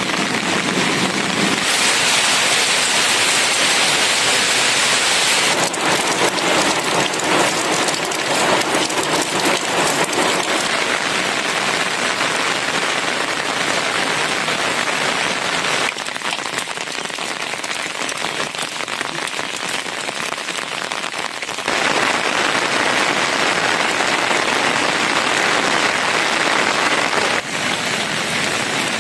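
Steady rain falling, a dense even hiss of drops. It turns softer for several seconds past the middle, then comes back just as loud.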